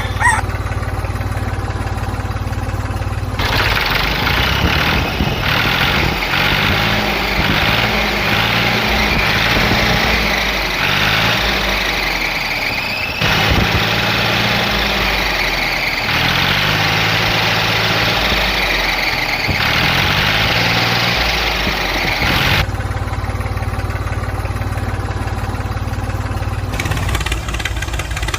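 An engine running steadily, like an idling tractor. A higher whining layer comes in abruptly a few seconds in, shifts partway through and stops abruptly a few seconds before the end.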